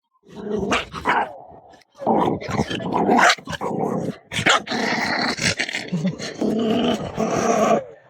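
Puppies growling and yapping in rough, continuous bursts, with a short pause about two seconds in.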